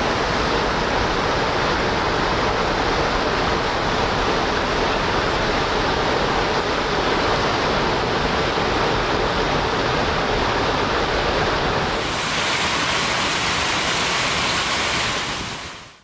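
Fountain water splashing and falling in a steady rush, fading out at the very end.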